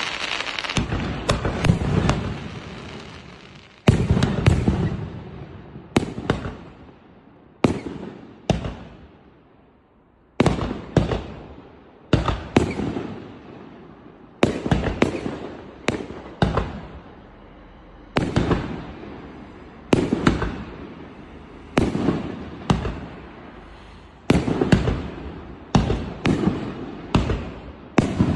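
Hurricane 50-shot, 2.5-inch-bore firework cake firing. It lets off sharp shots roughly one a second, often in quick pairs, each followed by a fading crackle. There is a short lull about ten seconds in before the shots resume.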